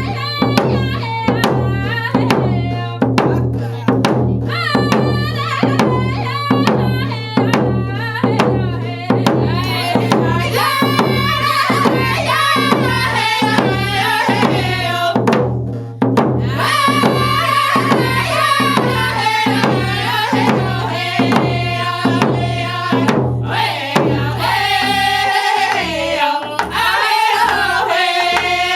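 Round dance song: a group of singers chanting over hand drums struck in a steady, even beat. The voices break off briefly about halfway through, and the low drum strokes thin out near the end.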